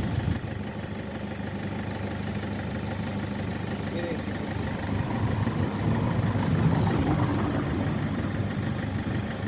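Opel Vectra car engine idling steadily.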